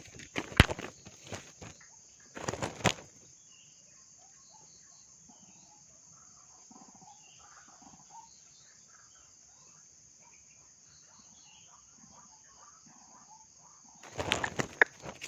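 Rustling and sharp knocks in the first three seconds and again near the end, with a quiet stretch between. Through it runs a steady high insect drone, with faint scattered bird calls.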